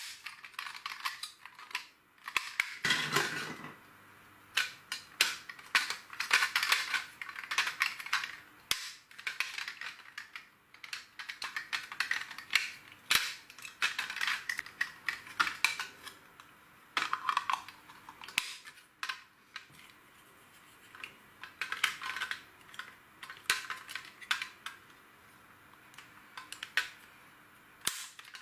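Small plastic LEGO pieces clicking and rattling as they are handled and pressed together, in irregular clusters of sharp clicks with short pauses between.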